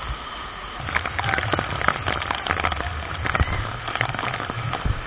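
Rain falling, with many irregular taps of drops close by over a steady rush of water.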